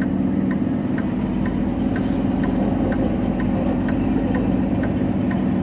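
Truck's diesel engine running steadily at low speed, with a light ticking about twice a second.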